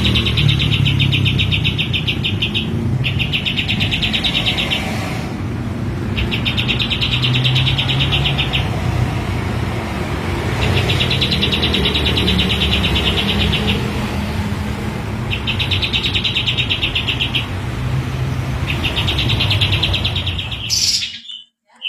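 Kapas tembak songbird singing a series of six long, rapid rattling trills ('bren panjang'), each one to three seconds, with short pauses between, over a steady low rumble. The sound cuts off abruptly near the end.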